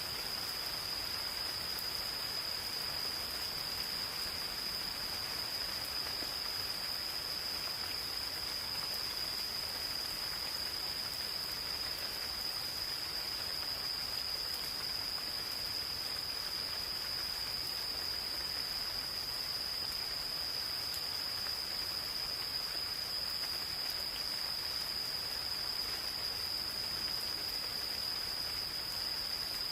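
Gentle rain falling in a forest, a steady patter, with insects trilling in one continuous high-pitched note.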